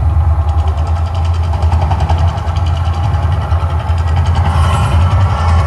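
Deep, steady rumble from the Mirage volcano show's loudspeakers, the eruption sound effect.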